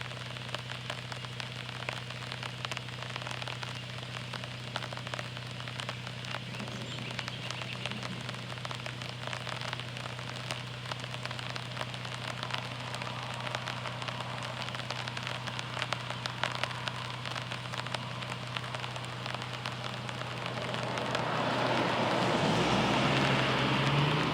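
Heavy thunderstorm rain falling, a dense crackle of drops hitting surfaces over a steady low hum. About three seconds before the end a louder rushing swell builds up and peaks.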